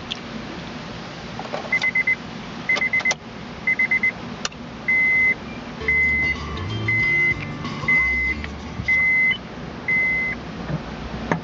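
A car's electronic warning beeper: three quick bursts of rapid beeps, then six longer single beeps about once a second, with a few sharp clicks in between.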